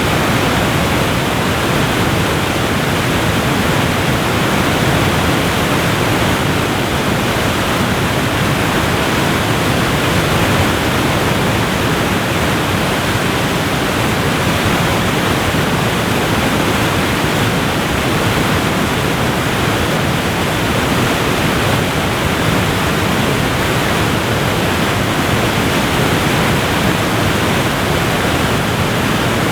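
Waterfall pouring, a steady rushing noise with no breaks.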